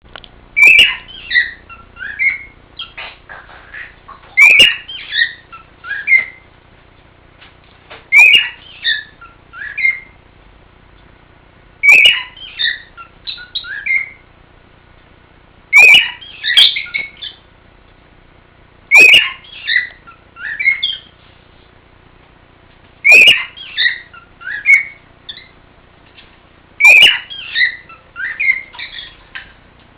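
Male cockatiel singing: the same whistled phrase repeats about every four seconds, eight times. Each phrase opens with a loud sharp note and runs on through a string of short whistled notes for about two seconds.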